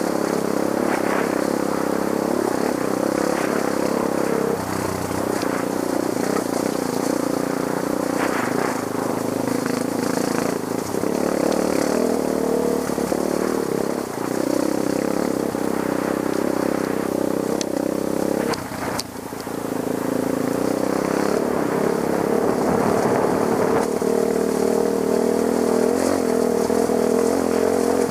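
Trail dirt bike engine running under constantly changing throttle, with the revs rising and falling. Near the two-thirds mark the throttle briefly closes and the engine drops, and there are scattered short clicks and clatter.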